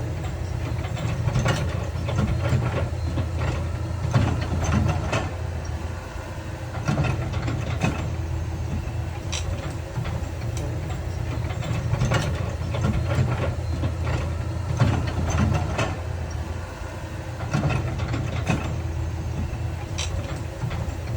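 Heavy diesel construction machinery running steadily, with irregular clanks and knocks of rock and metal every second or so.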